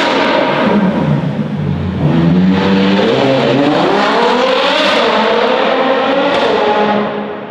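Ferrari Purosangue's V12 through a Novitec race exhaust, revving: the pitch falls early on, then climbs steadily as the engine accelerates, holds, and the sound drops away near the end.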